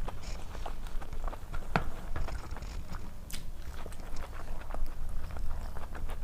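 A person eating close to the microphone: irregular chewing and wet mouth clicks, with a few sharper crunches.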